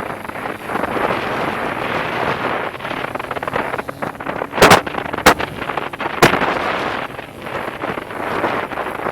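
Dirt bike riding with heavy wind noise on the microphone, broken by three loud, sharp impacts a little over a second apart as the rider crashes.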